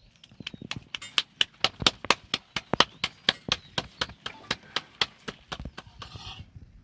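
A rapid run of sharp knocks, about six a second, loudest in the middle, stopping about a second before the end, followed by a brief scraping sound.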